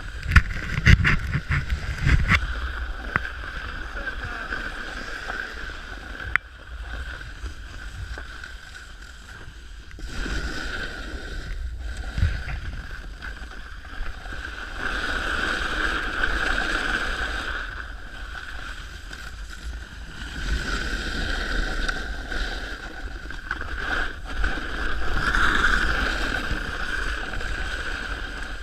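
Snowboard sliding over hard, icy snow: a continuous scraping hiss that swells and eases in long waves with the turns, with a few knocks in the first two seconds.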